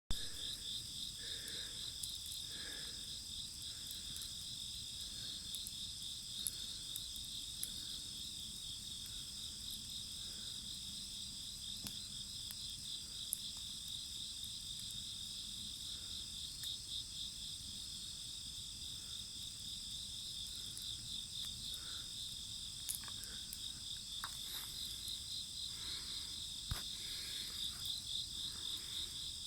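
Steady chorus of crickets chirping in a fast, even pulse, with a few sharp crackles from a wood fire.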